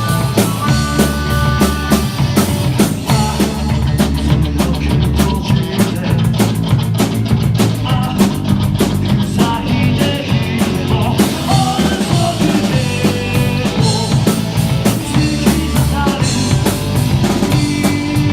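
Rock band music with a steady drum-kit beat driving over bass and other instruments, with no singing.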